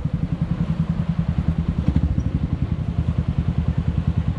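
Small Suzuki motorcycle's engine running at low revs, a steady, even, rapid beat.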